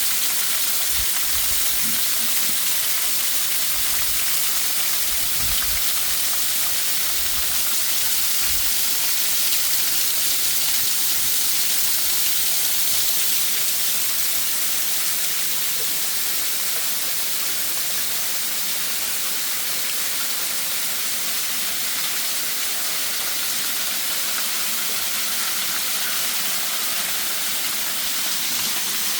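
Waterfall: a steady rushing hiss of falling water, with a few brief low thumps in the first several seconds.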